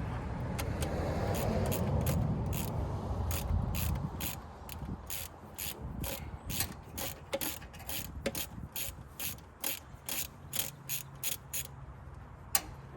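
Ratchet wrench clicking in a steady run of quick strokes, about two to three clicks a second, as it works a bolt on the engine. A low rumble underneath during the first few seconds.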